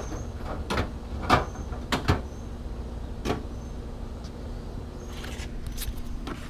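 Metal sockets and tools clicking and clinking as they are handled in a search through a socket set for a 10 mm socket. About six separate knocks at uneven intervals, with a steady low hum underneath.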